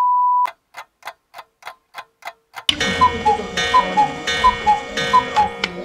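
Black Forest cuckoo clock: a short beep, then steady ticking about three times a second, then about three seconds in the two-note cuckoo call starts, high then low, repeating about five times over sustained tones.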